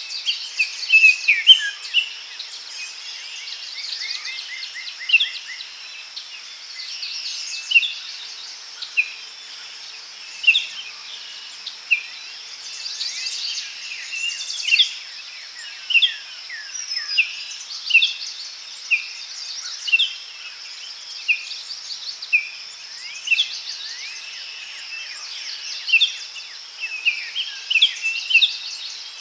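Daytime forest ambience: several birds singing and chirping in short repeated calls, with a quick trill about four seconds in, over a steady high-pitched insect drone.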